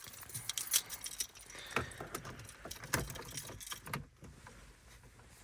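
Car keys jangling, with a run of small clicks and rustles that stop about four seconds in.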